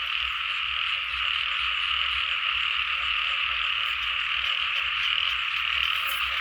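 Many frogs calling at once in a steady, dense chorus, with no breaks.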